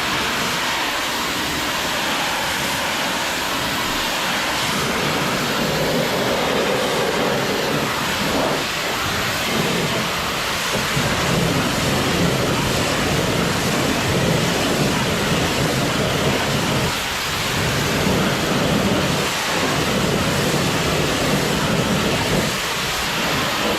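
Pressure washer wand spraying water onto a truck, a steady hiss whose tone shifts every few seconds as the spray moves across different surfaces.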